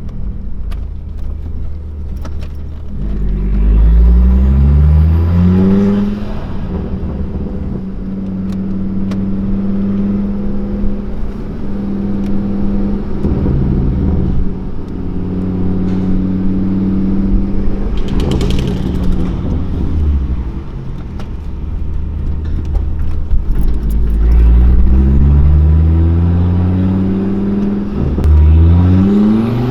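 2006 Volvo S60R's turbocharged 2.5-litre five-cylinder through a straight-piped exhaust, pulling hard. The revs climb in quick steps a few seconds in and hold a steady drone through the middle. They climb again twice in the last seconds.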